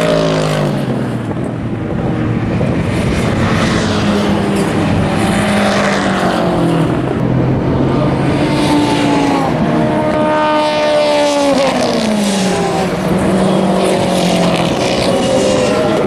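Race car engines driven hard past the trackside, several cars in turn, each engine note rising and then falling steeply in pitch as the car goes by.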